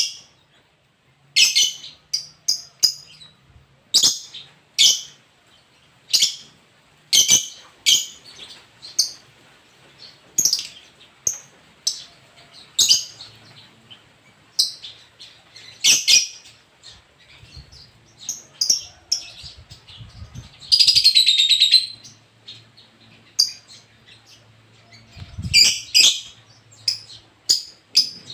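Lovebird giving short, shrill chirps every second or so, with one longer rapid chattering trill about three-quarters of the way through.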